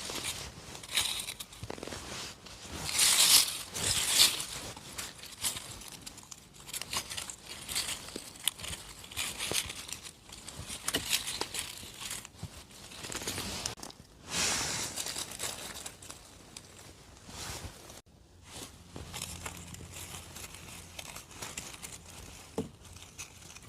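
Hands rustling and crinkling through dry forest-floor litter while picking mushrooms, with irregular tearing and crackling noises, loudest about three seconds in and again around fourteen seconds.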